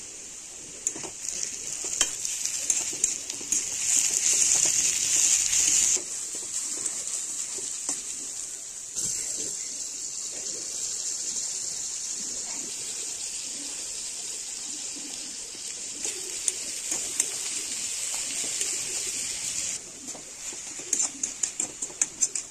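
Onions frying in hot oil in a wok-style pan, a steady sizzle that steps up and down in level a few times, with a metal spoon clicking and scraping against the pan now and then, most near the start and the end.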